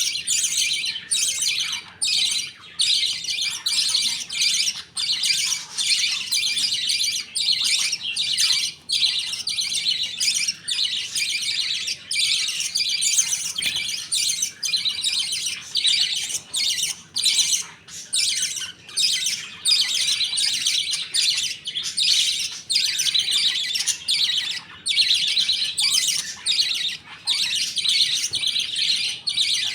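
A colony of budgerigars chattering and chirping continuously, many birds warbling at once in a dense, high-pitched stream with only brief breaks.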